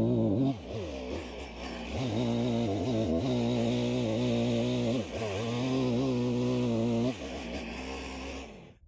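Gasoline chainsaw running at high revs, its pitch dropping sharply several times as it bogs down and picks up again while cutting through logs. It cuts off abruptly near the end.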